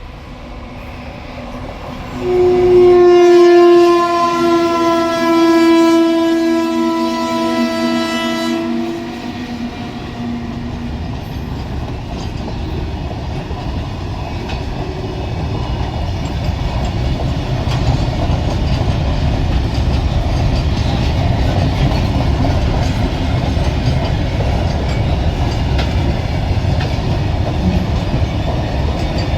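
Indian goods train with several locomotives: a locomotive horn sounds one long chord-like blast of about six seconds, starting about two seconds in. After it the train's rumble grows steadily louder as it approaches.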